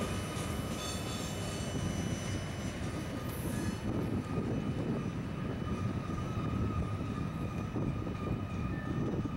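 A freight train's gondola cars roll past as a steady rumble of steel wheels on rail. A faint, high, steady ringing tone sits over the rumble.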